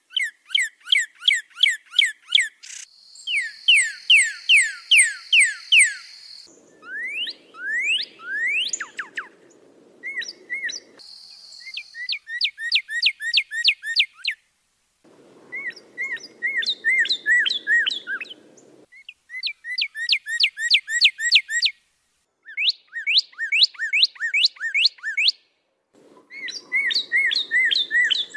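Songbird song: phrases of rapid, repeated whistled chirps sweeping in pitch, each phrase lasting a few seconds and separated by short pauses.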